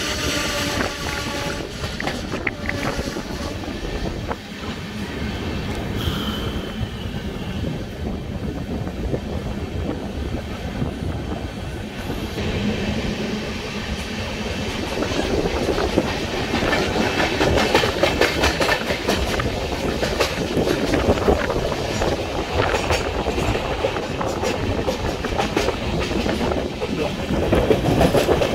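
Passenger train coach running on the rails, its wheels clattering over the track in a steady clickety-clack that grows louder and denser about halfway through.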